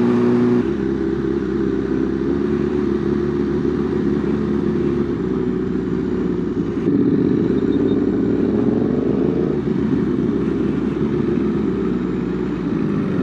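Sport motorcycle engine running under way, with a rise in pitch from about seven to nine and a half seconds in as it revs up.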